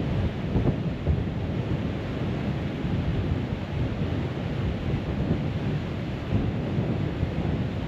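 Wind buffeting the microphone on a moving river boat: a steady, uneven low rumble without any distinct tones.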